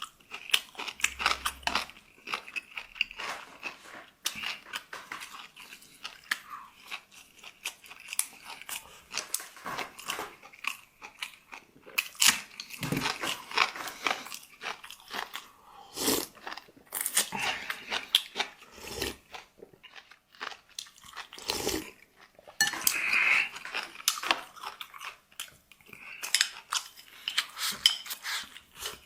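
A person chewing and biting crunchy food close to the microphone, with many irregular crunches and wet mouth clicks and a few louder bites.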